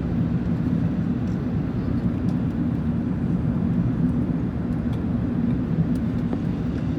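Steady low drone of an Airbus A380-841's Rolls-Royce Trent 900 engines and rushing airflow, heard from inside the passenger cabin in flight.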